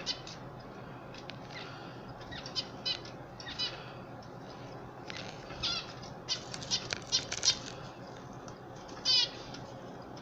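Canaries giving short, rapid rippling chirps: a few scattered at first, a quick run of them about six to seven and a half seconds in, and the loudest about nine seconds in, over a steady low hiss.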